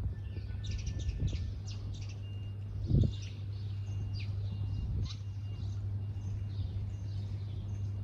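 Small birds chirping rapidly and repeatedly, with a few short whistled notes. A steady low hum runs underneath, and a single low thump comes about three seconds in.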